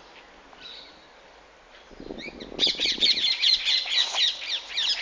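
A flock of green parrots squawking: after a quiet start, a dense run of shrill, rapid calls breaks out a little past halfway and keeps going.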